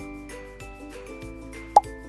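Light background music of plucked notes over a steady beat, with one short, loud rising 'bloop' sound effect a little before the end.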